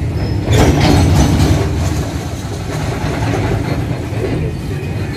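A train running past on the track: a heavy steady rumble, with a burst of clacks about half a second in and lighter ones after, as the wheels cross the rail joints.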